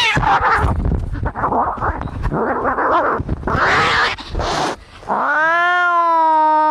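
Cats fighting: about five seconds of harsh, noisy hissing and spitting, then one long, steady-pitched yowl that starts a little after five seconds in.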